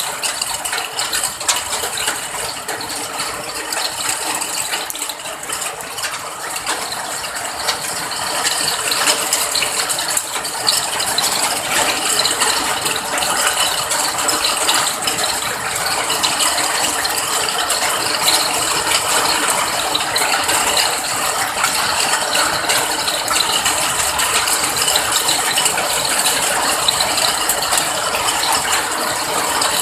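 Steady rain falling, a dense patter of many small drops hitting a surface, growing a little louder about eight seconds in.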